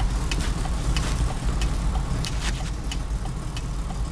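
Mercedes truck six-cylinder engine idling, a steady low rumble with sharp clicks a few times a second. A laptop diagnostic shows cylinder number 4 not firing, which leaves the engine with no pick-up.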